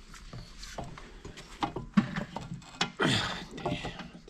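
Steel corn head parts being handled and worked into place by hand: scattered knocks and clicks, a sharper knock about two seconds in, and a brief scrape just after three seconds.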